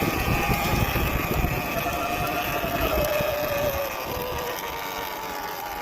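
Surron Ultra Bee electric dirt bike running at low speed: a steady motor whine that eases down in pitch partway through as the bike slows, over low wind and tyre rumble.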